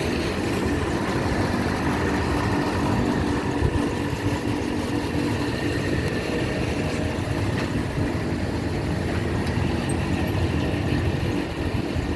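Steady mechanical hum: a constant low drone with a faint higher whine, as of machinery running without pause.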